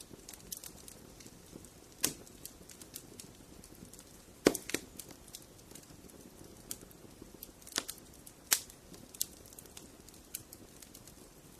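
Fire crackling in a fireplace: irregular sharp pops and snaps over a faint steady hiss, the loudest pop coming about four and a half seconds in.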